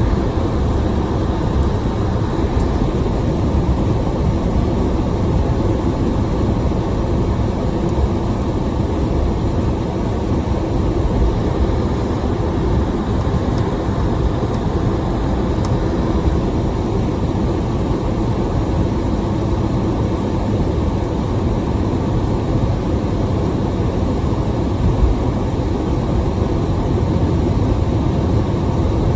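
Steady low rumbling noise inside a car in a heavy rainstorm, with no distinct breaks or strikes.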